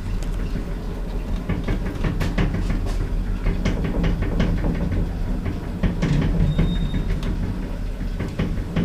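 Lift car travelling in its shaft: a steady low rumble and hum with frequent clicks and rattles.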